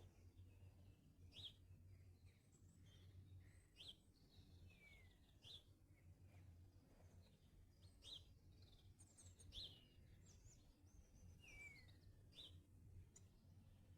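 Garden birds singing faintly: short sharp chirps every second or two, with a few falling whistled notes and thin high notes, over a steady low hum.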